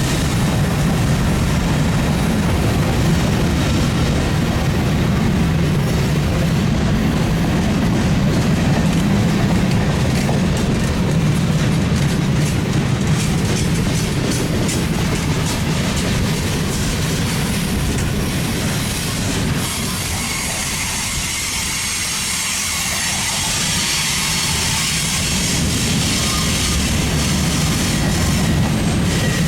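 Freight train rolling past, a steady rumble of steel wheels on the rails. From about twenty seconds in the low rumble fades and the sound turns thinner and higher-pitched.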